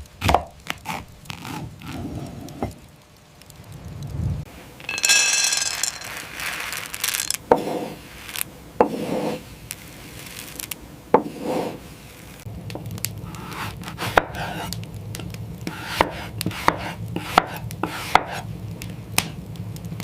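Kitchen knife chopping on a wooden cutting board: irregular sharp knocks of the blade going through food onto the board, with a brief high scrape about five seconds in.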